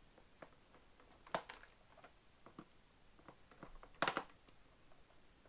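Scissors snipping through plastic packaging and ties, with light handling of the plastic tray: a sharp snip about a second and a half in, a louder double snip about four seconds in, and faint small clicks and rustles between.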